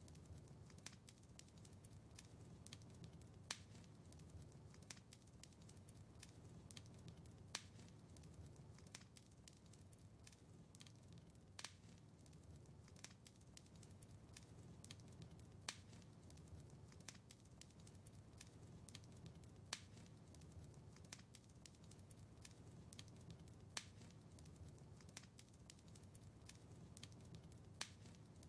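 Wood fire in a fireplace crackling softly over a low rumble, with frequent small crackles and a sharper pop about every four seconds.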